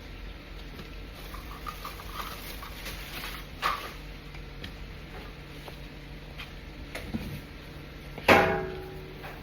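Spoon and dishes clinking: a few small clicks, a sharper knock, then a loud clink with a short ring near the end.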